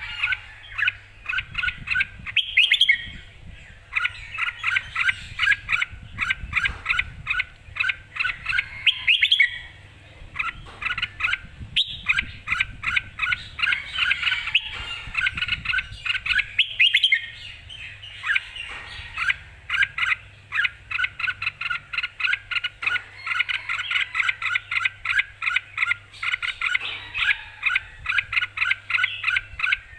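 Red-whiskered bulbul calling excitedly in long runs of quick, clear chirping notes, with brief pauses between runs. This is the keyed-up singing of a bird ready to compete.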